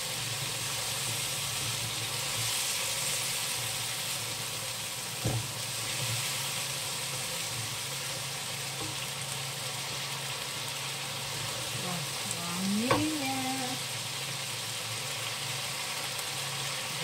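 Chopped aromatics sizzling steadily in oil in a non-stick wok while being stirred with a wooden spatula, with a sharp knock of the spatula against the pan about five seconds in and another near the thirteen-second mark.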